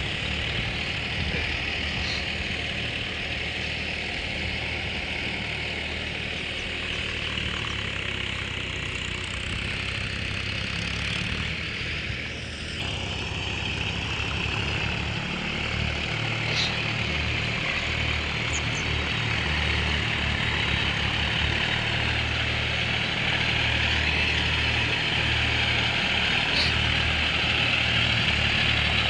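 Tractor diesel engine running steadily, with a steady high-pitched hiss alongside.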